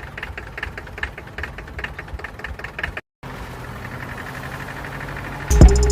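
Small tractor engine running with a fast, even putter. It drops out for a moment about three seconds in and comes back steadier. Near the end a sudden loud sound with held tones comes in over it.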